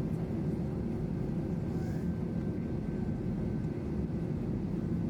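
Steady low rumble inside the cabin of an Airbus A321 airliner taxiing after landing, with its engines running.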